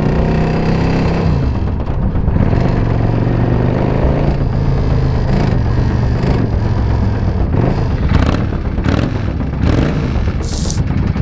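Motorcycle engine running and being revved, its pitch falling over the first couple of seconds and then rising and falling again. Sharp pops come a few times in the last few seconds, with a short hiss about ten and a half seconds in. The bike has an exhaust leak.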